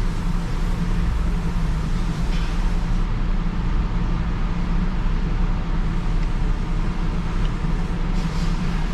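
Automated car wash running, heard muffled from inside the car's cabin: a steady low rumble, with brief hissing spray sounds about two seconds in and again near the end.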